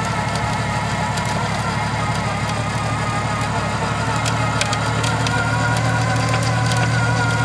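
Off-road vehicle's engine running steadily, with scattered sharp cracks and clicks; the engine gets a little louder about four and a half seconds in.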